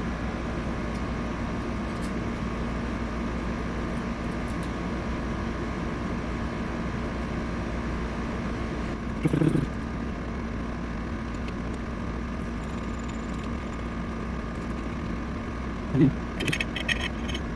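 A steady mechanical hum with a few fixed tones in it. Two short low sounds break through, about nine seconds in and near the end, with a few light clicks just before the end.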